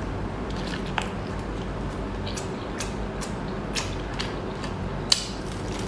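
A person chewing with the mouth close to the microphone: scattered short, wet mouth clicks and smacks, about half a dozen, with the sharpest click about five seconds in.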